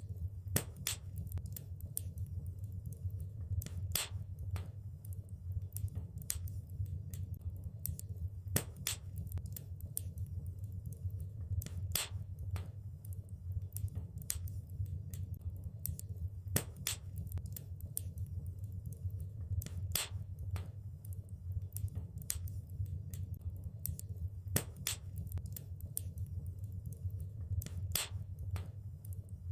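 Wood fire crackling in a fireplace: irregular sharp pops and snaps, a few a second, over a steady low rumble of the burning.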